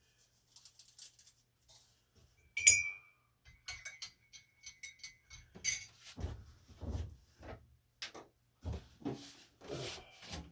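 Kitchenware being handled while tea is made: a sharp clink of a mug or spoon with a brief ring, then a run of lighter clicks and clinks, then several duller knocks.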